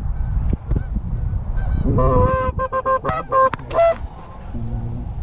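Flock of Canada geese honking, a dense burst of overlapping loud honks about two seconds in, over a steady low rumble, with a lower-pitched call near the end.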